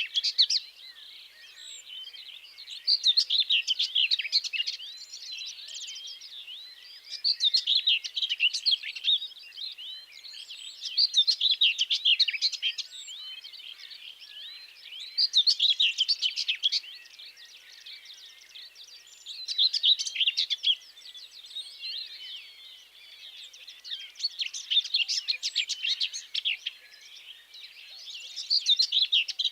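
A songbird singing a quick, busy phrase of about two seconds, repeated roughly every four seconds, with fainter chirps in between.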